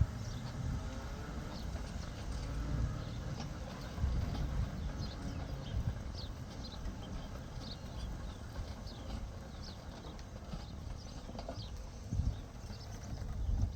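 Footsteps at walking pace on a hard footpath, with low rumbling bursts that come and go.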